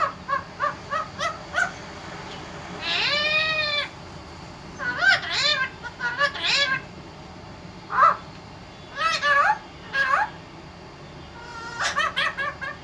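Parrot calling: a quick series of short pitched notes, then one longer drawn-out call with a rise and fall, followed by more short clusters of calls.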